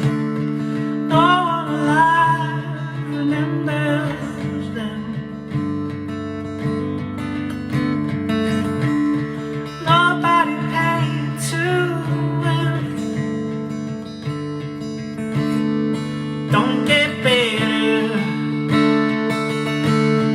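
Acoustic guitar in an alternate tuning being strummed, with low open strings ringing on under the chords. A singing voice comes in briefly three times over it.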